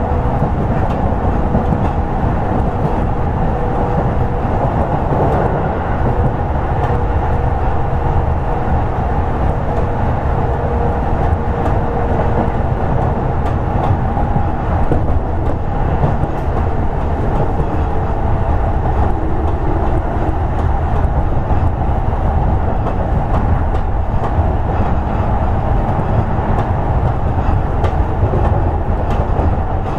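Toei 10-300 series electric train running at speed, a steady rumble of wheels on rail. A faint steady tone sounds in the first half and fades out.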